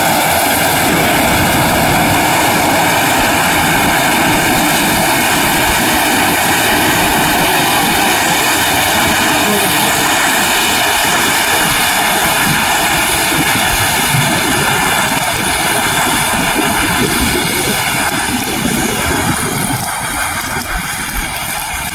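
Mini wheat combine harvester running at work, its engine and cutting and threshing machinery making a loud, steady mechanical din that eases a little near the end.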